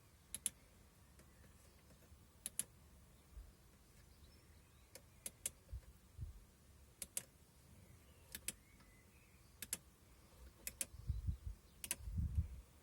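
Buttons and switches in a car's cabin clicked again and again, mostly as pairs of quick clicks a second or two apart, with a few low thumps near the end.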